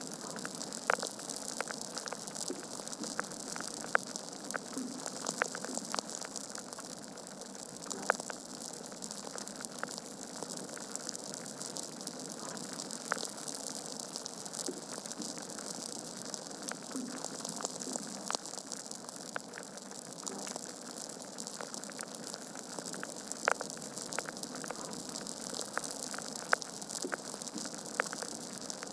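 Wood fire burning in a fireplace: a steady hiss of flames with irregular sharp crackles and pops from the logs, a few louder snaps standing out.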